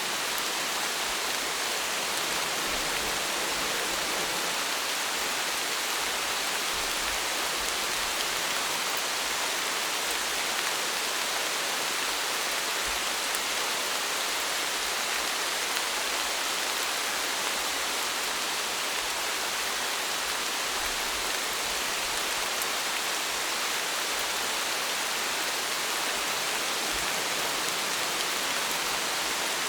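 Steady rain falling, an even hiss of many drops with no pauses.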